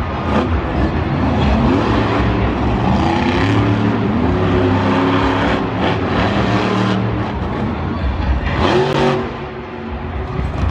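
Monster truck engine revving hard, its pitch rising and falling again and again, with a brief drop in loudness near the end.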